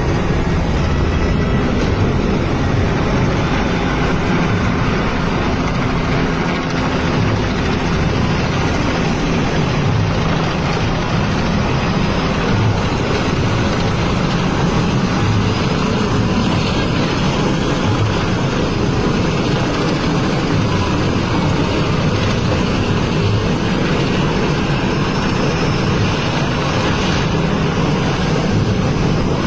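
Helicopter flying overhead, its rotor and engine making a steady loud noise.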